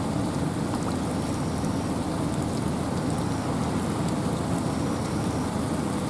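Steady wind and rain in a forest: a low, even rush of wind with fine raindrops pattering through it, unchanging in level.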